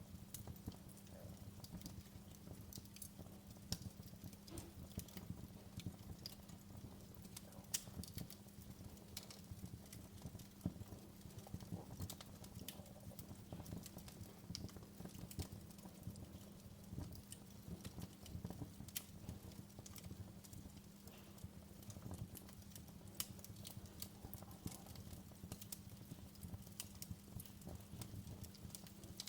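Wood fire in a fireplace crackling: irregular sharp pops and snaps, some louder than others, over a low steady rumble.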